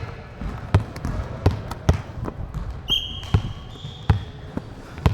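A ball bouncing again and again on a hard indoor court floor, one sharp bounce every half-second to second. About three seconds in, a short, steady high tone sounds over the bounces.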